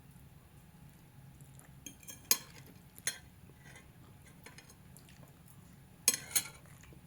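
Kitchen utensils clinking against dishes: a few separate clinks about two to three seconds in and a quick cluster near the end, over a low steady hum.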